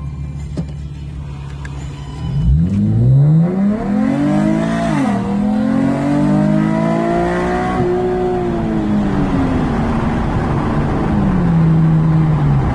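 2012 Chevrolet Camaro 3.6-litre V6 with an aftermarket exhaust (high-flow cats, X-pipe, ZL1 mufflers, and an exhaust leak the owner notes), heard from inside the cabin. It idles, then accelerates hard from a standstill about two seconds in, its pitch climbing. The pitch drops sharply at about five seconds as the automatic upshifts, climbs again, then sinks slowly and steps down once more near the end.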